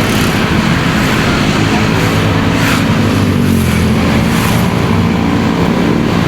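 Motorcycle engine running steadily while riding, mixed with wind rush and road traffic noise.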